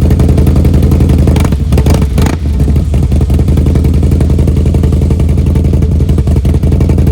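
2017 Harley-Davidson Dyna S V-twin running loudly and steadily through its Two Brothers Racing exhaust, the muffler freshly repacked with new fiberglass packing, with a brief rougher patch about two seconds in.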